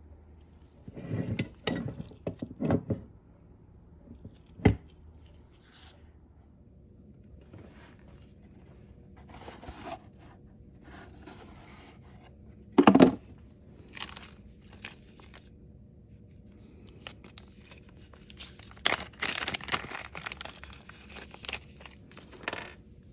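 Intermittent handling noises: a few rustling and scraping spells, a sharp click about five seconds in, and a single loud knock about halfway through, with a longer run of rustling and scraping near the end.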